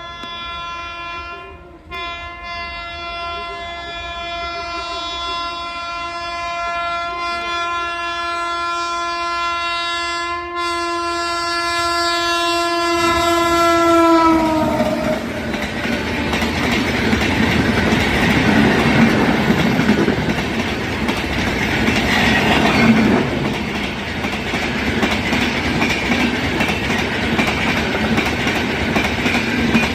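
Indian Railways locomotive horn held in one long, many-toned blast that grows louder, breaking briefly twice. About fourteen seconds in its pitch drops sharply as the locomotive passes, and the horn gives way to the loud rumble and clickety-clack of the train's coaches rolling past.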